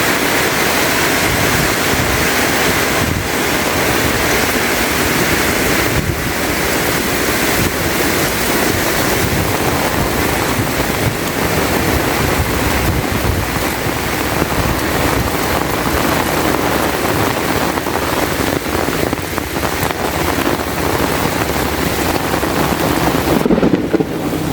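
Heavy rain falling, a dense steady hiss. Near the end the high part of the hiss drops away for a moment and the level turns choppy.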